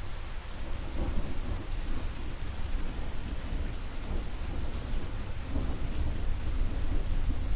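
Steady rain falling, with a low, uneven rumble of thunder beneath it.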